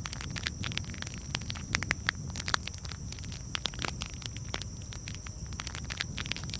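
Wood campfire crackling: irregular sharp pops and snaps, several a second, over a low steady rumble of the flames.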